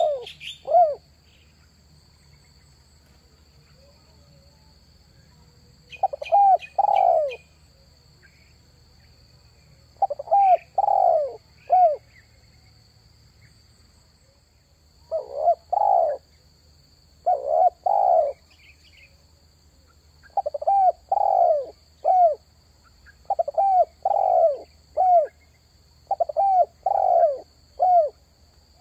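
Spotted dove cooing in phrases of three or four short notes. There is a long pause near the start, and the phrases then repeat every two to three seconds. Brief high chirps from a small bird come near the start and again about six seconds in, over a faint steady high hum.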